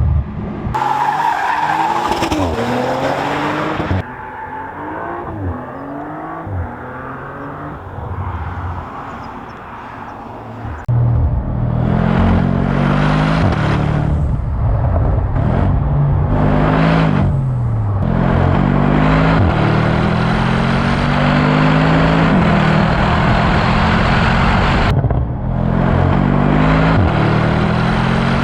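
Sports car engine and exhaust under hard acceleration through the gears, the pitch climbing and then dropping back at each upshift, many shifts in a row. The first part is quieter, with abrupt changes where the sound cuts from one passage to another.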